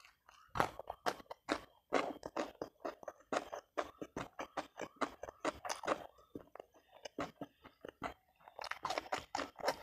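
A person chewing crunchy food, a dense run of crisp crunches broken by a few short pauses.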